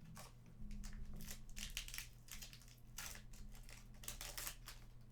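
Trading card pack wrappers and cards being handled: an irregular run of crinkling and rustling strokes over a faint steady hum.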